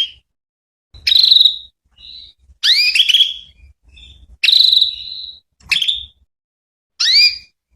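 Female canary calling: short, loud, upward-sweeping chirps repeated about once a second, some drawn out into a brief trill, used as a lure to make male canaries sing back.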